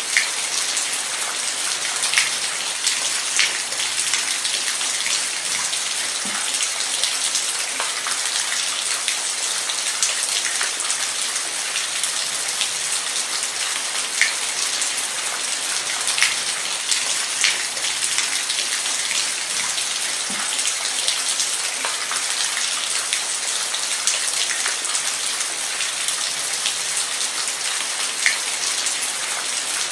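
Steady rain, with scattered louder drops pattering on a surface.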